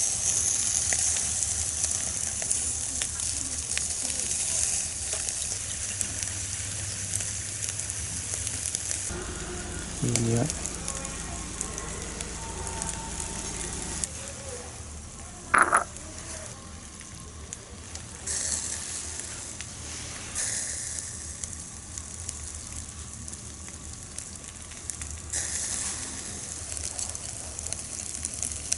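Spanish mackerel head sizzling as it grills over a wood fire: a steady hiss of cooking fat with scattered crackles. A brief louder sound comes about halfway through.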